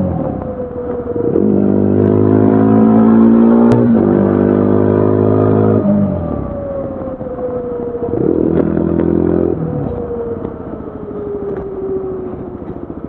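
2025 Yezdi Adventure's single-cylinder engine and exhaust under way: a short dip off the throttle, then it pulls hard for about four seconds with a sharp click partway through, before the revs fall slowly on a closed throttle, broken by a brief burst of throttle around eight seconds in.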